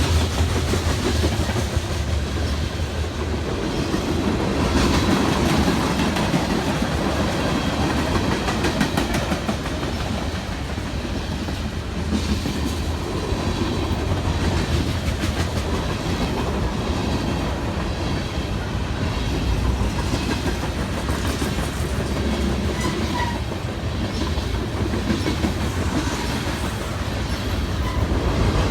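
Freight train cars rolling past at steady speed, their wheels clicking over the rail joints over a continuous rumble.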